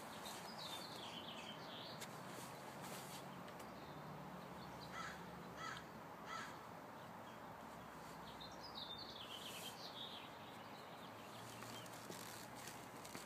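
Birds calling: three short calls close together about five to six and a half seconds in, with high twittering near the start and again around nine seconds, over a faint steady outdoor background.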